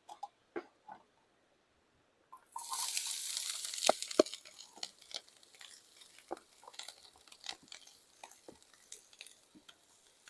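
Leftover ham and onion going into a hot, oiled frying pan: a loud sizzle breaks out about two seconds in, with two sharp knocks, then settles into a quieter crackle with scattered clicks.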